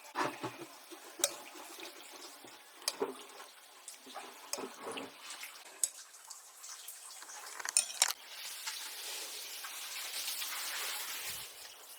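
Water sounds with scattered clinks and knocks of hard objects, then a steady rush of water for about three seconds near the end.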